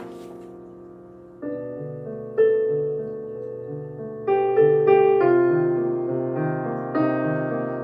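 Solo piano playing a slow, dissonant minor piece. Chords are struck over a repeating low bass figure and die away between strikes, with louder chords about two and a half and five seconds in.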